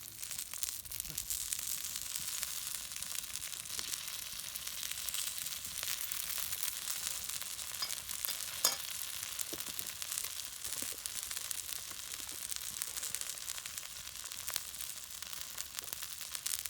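Steady sizzling, crackling hiss made of many fine clicks, with one sharper click about halfway through.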